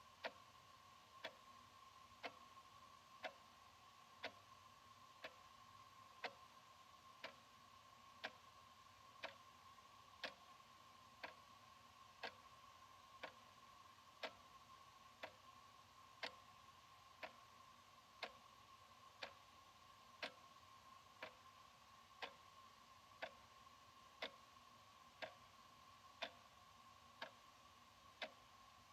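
Analog wall clock ticking, one sharp tick about every second, over a faint steady tone.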